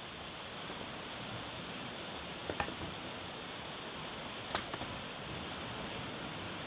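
Steady wash of ocean surf, with two short sharp clicks or knocks about two seconds apart, near the middle.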